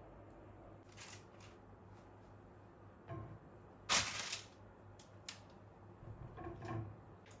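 A few brief rustling and handling noises, like things being moved or unwrapped, with the loudest rustle about four seconds in and a small cluster near the end.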